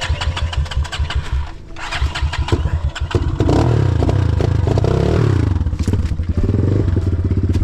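Single-cylinder enduro motorcycle engine sputtering unevenly for about three seconds, then catching and running steadily, revving up and back down once before settling into a steady idle.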